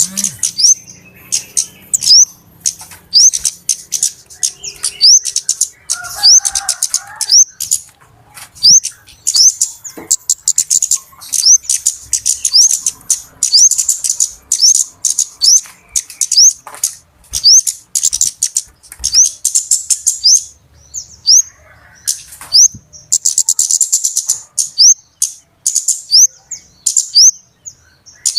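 Flowerpecker (burung cabe-cabean) calls used as a lure: rapid, high-pitched sharp chips and short sweeping notes, given in busy repeated bouts with brief pauses between them.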